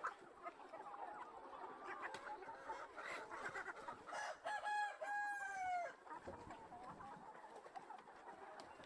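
A flock of chickens clucking and calling over one another, with a couple of louder, drawn-out calls about halfway through, likely a rooster crowing.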